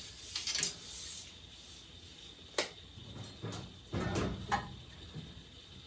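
Wooden 2x4 pieces being handled: scraping and rubbing, several short scrapes with a couple of sharp knocks.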